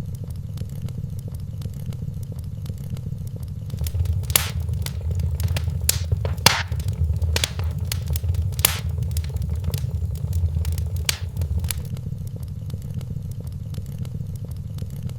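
Wood fire burning in a fireplace, crackling with irregular sharp pops over a steady low rumble. The pops come thicker and louder through the middle of the stretch.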